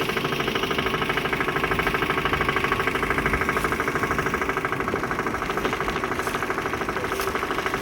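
A motorboat's engine running steadily, with a fast, even putter.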